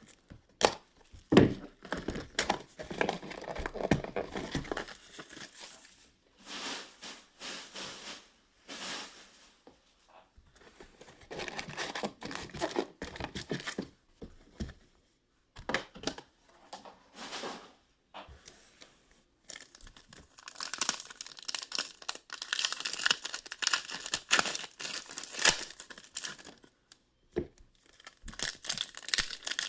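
Trading card boxes and packs being ripped open by hand: wrapper and packaging crinkling and tearing in irregular bursts, with short pauses between.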